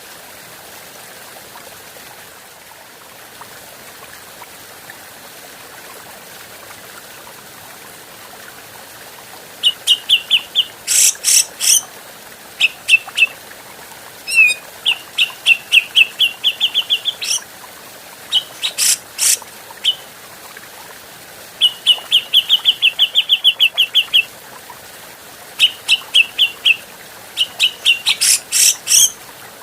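Grey-cheeked bulbul (cucak jenggot) singing: after a stretch of steady background hiss, from about ten seconds in it delivers fast chattering phrases of quickly repeated notes, broken by loud sharp calls, with short pauses between phrases.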